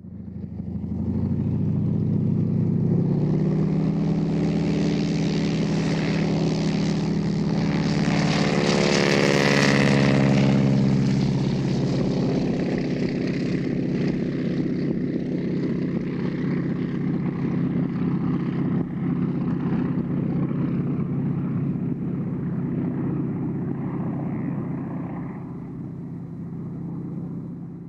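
North American AT-6 Texan, a single-engine propeller plane with a Pratt & Whitney R-1340 radial engine, taking off at full power. The engine sound builds, is loudest about ten seconds in with its pitch falling as the plane passes, then runs on and fades a little near the end as the plane climbs away.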